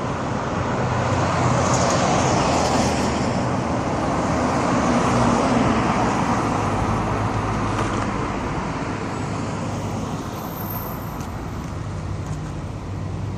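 Road traffic noise: a steady wash of car engine and tyre noise with a low hum, swelling about two seconds in and easing slightly toward the end.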